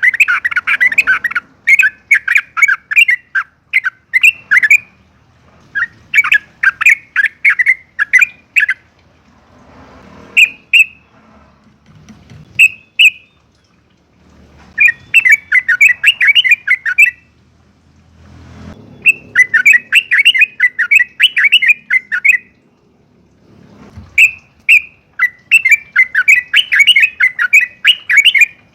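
Yellow-vented bulbul singing its fast, bubbly chattering song in bouts of two to four seconds, with short pauses and a few single notes between bouts.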